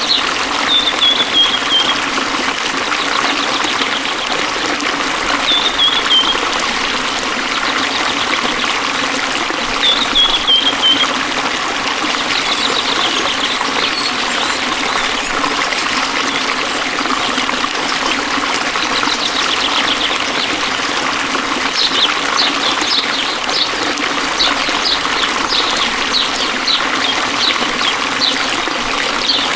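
Forest stream flowing and trickling steadily. A bird gives three short falling calls in the first half, and a run of quick chirps comes near the end.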